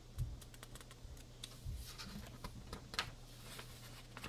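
Pages of a paperback coloring book being turned and handled: scattered light paper clicks and rustles, with a few dull low knocks and a steady low hum underneath.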